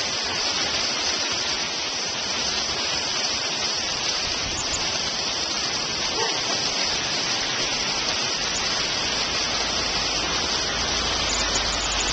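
Hailstorm: hail pelting down without a break, a dense, steady hiss strongest in the high range.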